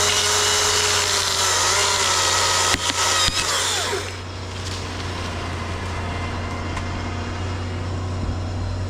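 Chainsaw at full throttle cutting through wood for about four seconds, with two sharp cracks near the end of the cut, then dropping back. A steady low engine hum runs underneath.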